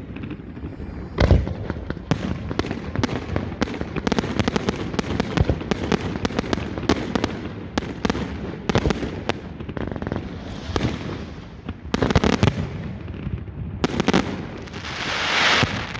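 Close-range fireworks display: a steady run of sharp bangs and crackles with several heavier booms, and a crackling fizz swelling near the end.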